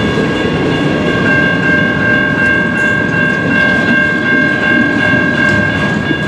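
CN freight train rolling past, its cars rumbling steadily, with a steady high-pitched ringing tone held over the rumble.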